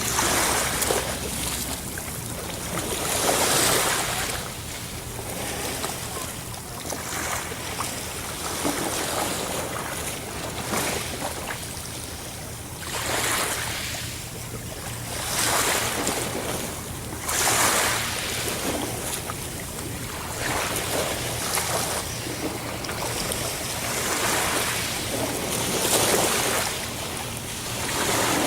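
Ocean waves breaking and washing ashore, a steady hiss of surf with a louder wash every few seconds.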